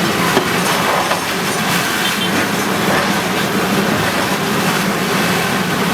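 Bulldozer running: a steady heavy engine with continuous rattling and clatter.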